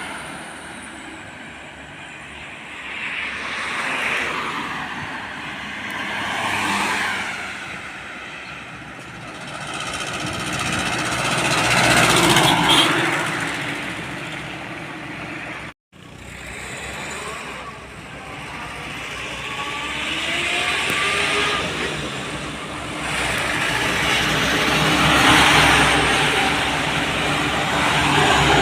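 Road traffic with trucks and other vehicles passing one after another, their engine and tyre noise swelling and fading with each pass. About two-thirds of the way in, an engine climbs in pitch as it accelerates. Just past halfway there is a momentary break where the sound cuts out completely.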